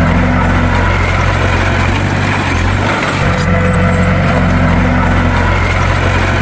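Bulldozer's diesel engine running steadily with a deep, continuous hum.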